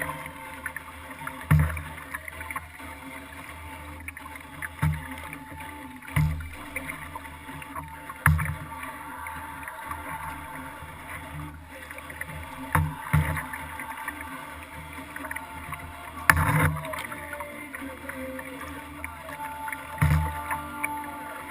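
Kayak being paddled, heard from a camera mounted on the hull: thumps and water slaps against the boat every few seconds over a steady wash of water.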